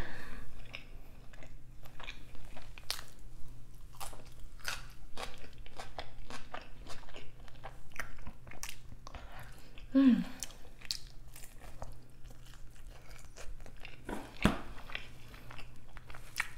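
Close-miked biting and chewing of a crispy pizza slice: irregular sharp crunches and wet mouth clicks, with a short hummed "mm" about ten seconds in.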